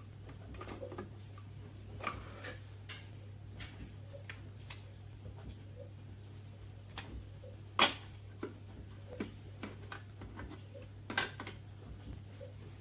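Irregular small clicks and knocks of objects being handled, with one sharper knock about eight seconds in and a couple more near the end, over a steady low hum.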